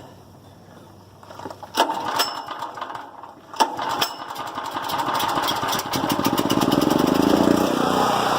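Portable generator's gasoline engine being pull-started: a couple of sharp rope pulls, then it catches a little over halfway through, fires faster and settles into a steady run.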